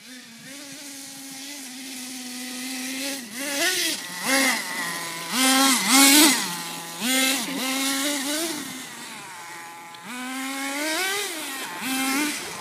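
Redcat Volcano RC truck's motor running and revving, with repeated short throttle blips that make the pitch jump up and fall back. It holds a steady tone for the first few seconds, then revs in quick bursts, steadies again, and rises once more about eleven seconds in.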